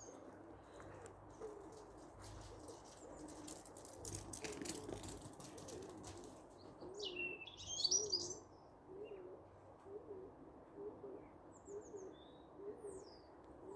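A pigeon cooing over and over, a short low coo roughly every second for most of the stretch, faint against the background. About seven seconds in a songbird sings one quick high chirping phrase, and a few thin high notes follow near the end.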